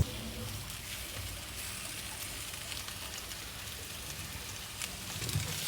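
Thai omelette frying in a pan of oil: a steady, quiet sizzle with a few faint crackles, swelling slightly near the end.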